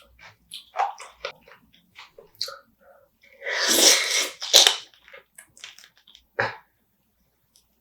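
Close-up eating sounds of spicy marinated raw crab: wet chewing and crunching of crab shell in short clicks. There is a long, loud, noisy burst about three and a half seconds in and sharp ones near four and a half and six and a half seconds.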